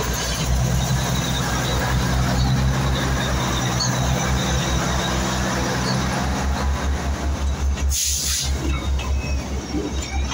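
Narrow-gauge diesel locomotive of the Matheran toy train passing with a steady engine hum that fades away as its coaches roll by. A short burst of hiss comes about eight seconds in.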